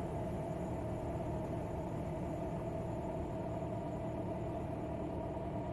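Kawasaki Z900 inline-four motorcycle engine running steadily, with no revving.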